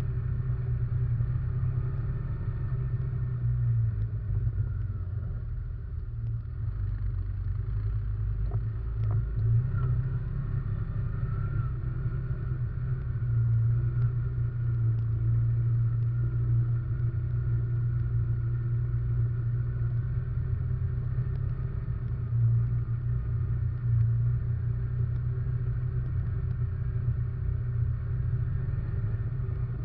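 Russian Mechanics RM 500 ATV engine running while riding, heard from a camera mounted on the quad. It is a steady low rumble that swells and eases slightly with the throttle.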